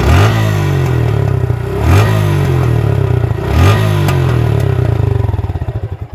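Suzuki Gixxer's single-cylinder motorcycle engine idling and revved three times with quick throttle blips, then cut off near the end. The owner says this engine note has changed since the Motul 7100 10W-40 oil passed about 2,500 km.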